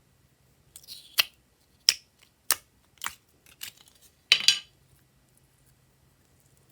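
Glossy slime being squeezed and folded by hand, giving a series of about seven sharp wet pops and clicks as air pockets burst, with a longer crackling cluster near the end.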